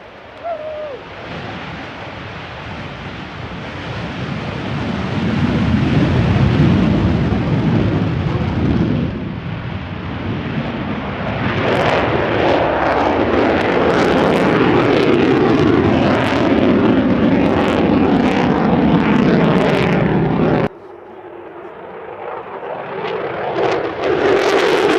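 F-22 Raptor's twin Pratt & Whitney F119 afterburning turbofans roaring on takeoff and in a full-afterburner pass. The roar builds over several seconds, then turns harsher with afterburner crackle. It drops away abruptly about three-quarters of the way through and swells again near the end.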